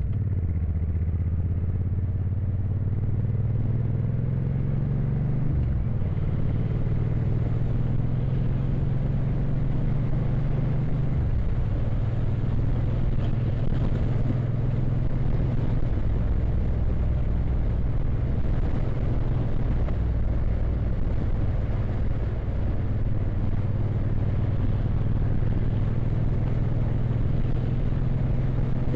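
Motorcycle engine running steadily under way on the road, over a steady noise haze. The engine note shifts twice, about six and eleven seconds in.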